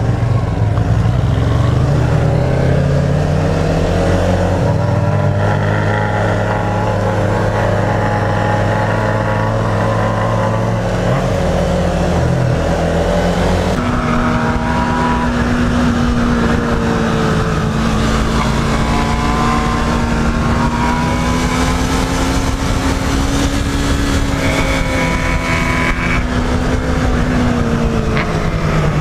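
Yamaha MT-03's 321 cc parallel-twin engine pulling under way, heard from on board the motorcycle, its note rising and falling with the throttle. The sound changes abruptly about halfway through, and a rushing hiss builds toward the end.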